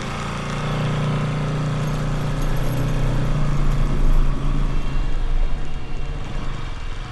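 Bajaj Pulsar NS200's single-cylinder engine running under way, steady and growing a little louder toward the middle before easing off near the end.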